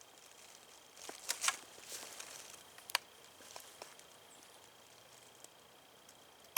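Quiet woods: a few light rustles and clicks in the leaf litter, with a faint steady high-pitched tone underneath.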